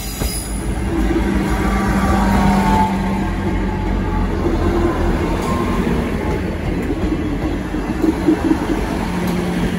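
Class 158 diesel multiple unit running past close by over a level crossing: a steady rumble of its diesel engines and of wheels on the rails, swelling slightly a couple of seconds in.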